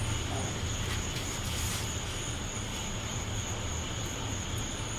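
Night-time outdoor ambience: a steady high-pitched drone of insects and frogs over an even hiss and a low steady rumble, with no popper snaps.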